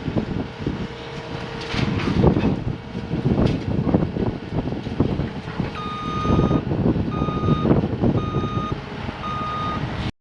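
CAT 259D compact track loader's diesel engine running with irregular louder surges, its reversing alarm beeping in a steady series in the second half. The sound cuts off abruptly just before the end.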